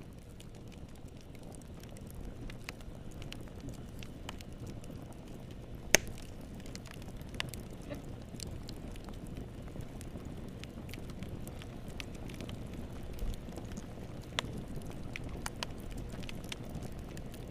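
Wood fire crackling in a fireplace: a steady low rumble of burning with scattered sharp pops and snaps, the loudest about six seconds in.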